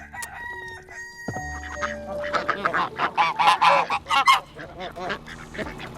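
Ducks quacking in a rapid, overlapping run of calls that starts about two seconds in, is loudest in the middle and thins out toward the end. Soft steady music tones come before the calls.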